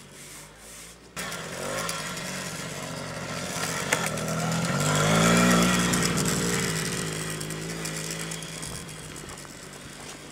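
A child's petrol quad bike engine running, getting louder and higher in pitch toward the middle, then lower and quieter again. A sharp click about four seconds in.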